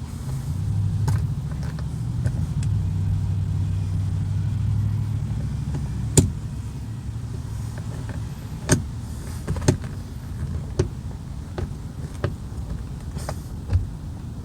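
A low steady hum for about five seconds, then a string of separate sharp clicks and taps as door trim parts and screws are handled.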